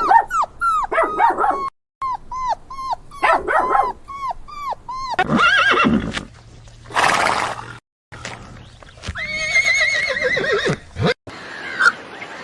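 Horses whinnying in several short clips cut together: rows of quick falling calls, breathy blowing bursts, then a long high whinny with a fast wavering pitch that drops away at the end, about eight seconds in.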